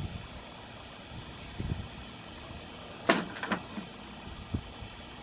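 A few clicks and knocks of the hose reel's metal parts being fitted back together by hand, the sharpest click about three seconds in, over a steady background hiss.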